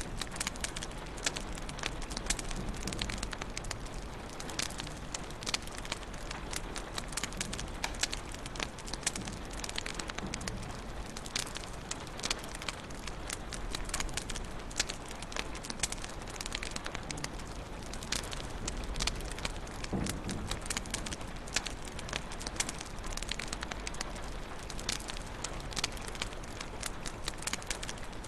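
Fireplace fire crackling: a steady hiss with frequent sharp pops and snaps throughout.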